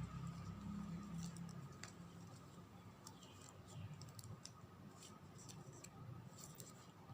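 Faint scattered clicks and rustles of ribbon strips being handled and pulled tight, over a low steady room hum.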